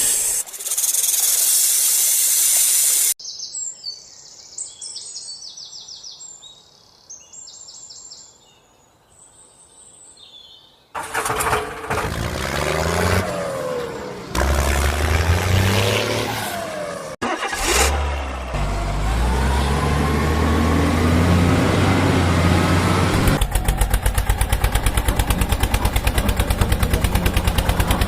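A few seconds of loud hiss, then several seconds of bird chirps, then a vehicle engine starting and revving up and down. From about five seconds before the end it settles into a steady fast rhythmic chugging.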